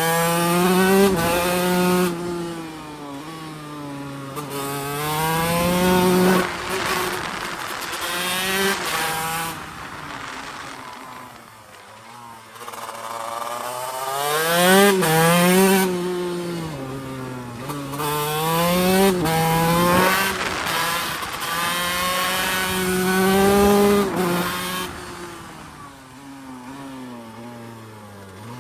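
TM Racing SMR 125 two-stroke single-cylinder engine under hard acceleration. Its pitch climbs through the revs and drops sharply at each gear change, and twice it falls back to low revs off the throttle before pulling up again.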